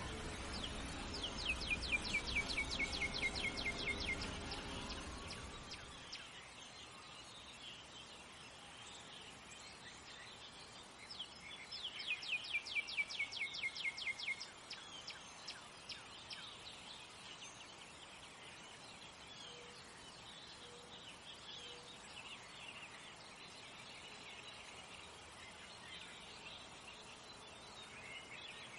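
A songbird singing two trills, each a rapid run of downward-sweeping notes lasting about three seconds, the second about ten seconds after the first, over a faint steady outdoor background. Low music fades out in the first few seconds.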